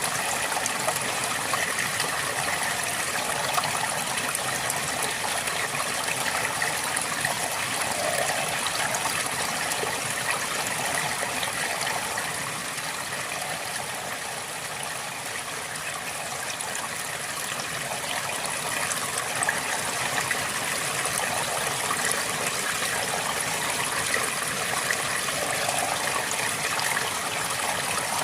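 River water flowing steadily over stones, a constant rushing with small gurgles and trickles, easing slightly in the middle.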